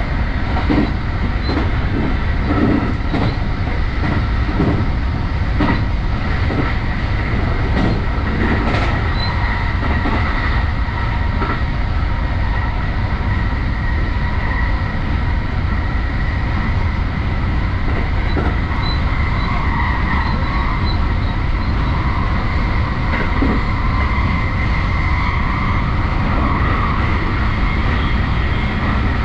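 JR West Special Rapid Service electric train running at speed, heard from the driver's cab: a steady rumble of wheels on rails with a steady high whine, and clicks over rail joints during the first ten seconds or so.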